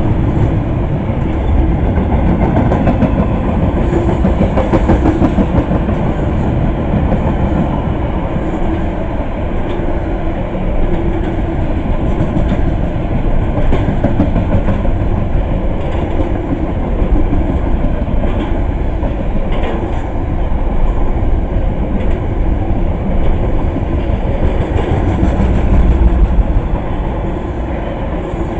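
A train's cars rolling past at close range: a steady loud rumble with the clickety-clack of wheels over rail joints. The sound swells and then drops away near the end as the last car passes.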